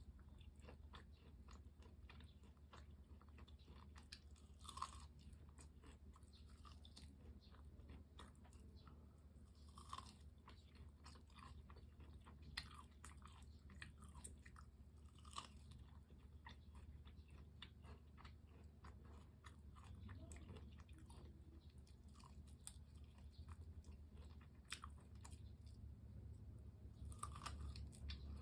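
Close-up chewing and crunching of crispy fried chicken: a stream of small crackles, with louder crunchy bites every few seconds.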